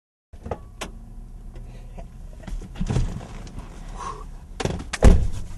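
Car door being handled: a run of latch clicks and knocks, a thump about three seconds in and a heavier thump about five seconds in.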